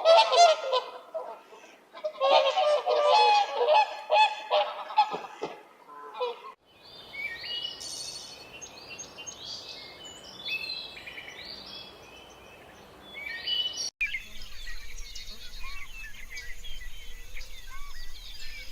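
Geese honking loudly, many calls overlapping for about six seconds. After a sudden cut, birds calling and chirping over a noisy outdoor background.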